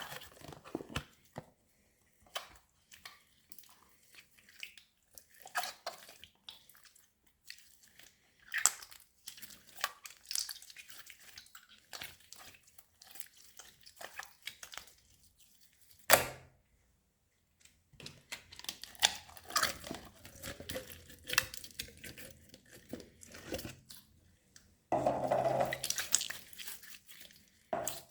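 A large mass of mixed old slime being squished, stretched and folded by hand, making irregular sticky pops and crackles. One sharp, loud pop comes just past halfway, followed by a short pause, and the squishing gets denser near the end.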